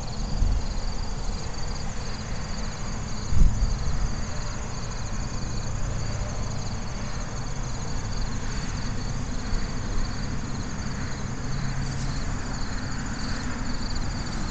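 Honey bees buzzing at a hive entrance, a steady hum, with crickets chirping in a fast, even pulse above it. A brief low thump about three and a half seconds in.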